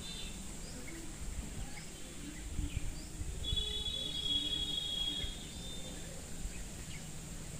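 Outdoor ambience of birds: scattered short high chirps, and a high, even trill held for about two seconds around the middle. Under it runs a low rumble of wind or handling noise.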